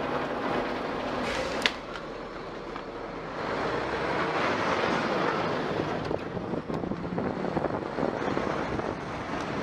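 Steady road-traffic and vehicle noise, with a single sharp click a little under two seconds in.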